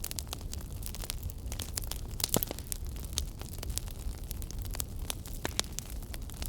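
Wood fire in a fireplace crackling, with irregular sharp pops and snaps over a low rumble of burning; the loudest pop comes a little after two seconds in.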